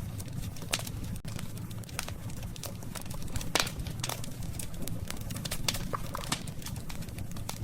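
Campfire of burning wood crackling, with irregular sharp pops over a steady low rumble of the flames; one louder pop about three and a half seconds in.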